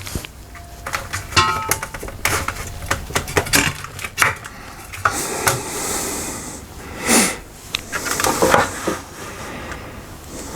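Clicks, knocks and scraping of a screw being driven in to fix a plastic laminator cover back in place, with tools and hard parts being handled.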